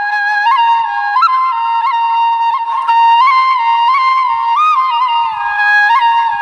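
Background music: a single flute melody moving between held notes with quick grace-note flicks.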